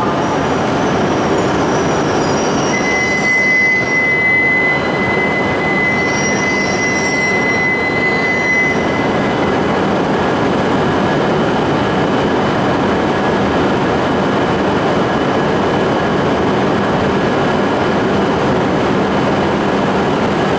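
Shinkansen train running through an underground station platform with a loud, steady rumble. A single high steady squeal is held from about three seconds in until about nine seconds in.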